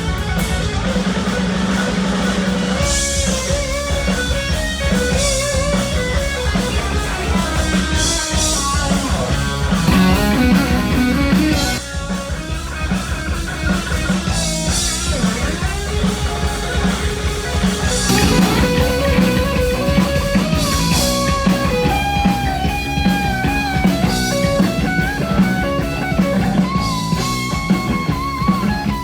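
Heavy metal band playing live: electric guitar lead lines over bass and a drum kit, with cymbal crashes every few seconds and no singing.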